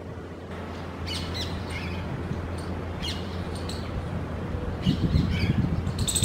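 Birds chirping in short bursts, three or four times, over a steady low hum.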